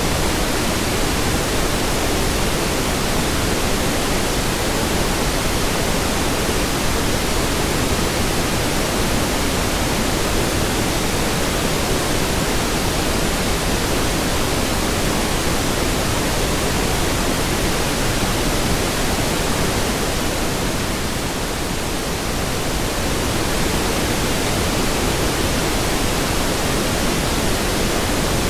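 Steady pink noise: an even, rushing hiss across the whole range of pitch, with no tones or rhythm. About 21 seconds in it turns slightly softer and duller for a couple of seconds, then comes back up.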